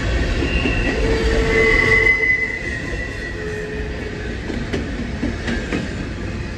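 A passing train: the rumble of the cars with the wheels squealing against the rails. It is loudest in the first two seconds or so, then eases off.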